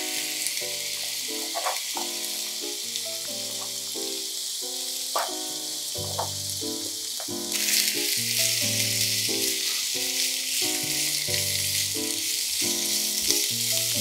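Sliced burdock root and carrots sizzling in hot oil in a frying pan as they are stir-fried with a silicone spatula. The sizzle grows louder about halfway through. Soft background music runs underneath.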